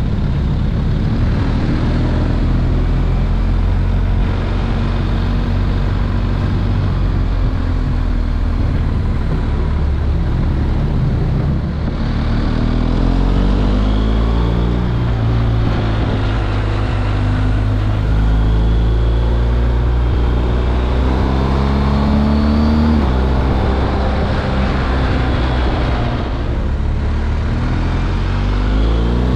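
BMW R1250 GS Adventure's boxer-twin engine through its stock exhaust, running under load and climbing in pitch several times, each climb cut off by a drop, as when shifting up through the gears.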